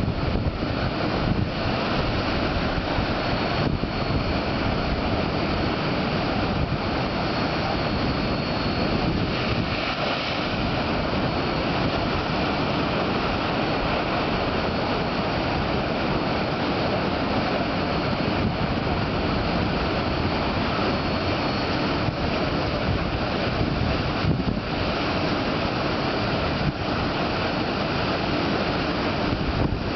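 Big ocean waves breaking as a steady rush of surf, with wind buffeting the microphone.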